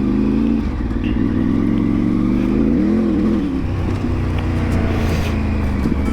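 Triumph 900 motorcycle engine, a second-hand replacement unit, running steadily, with a brief rev up and back down about three seconds in.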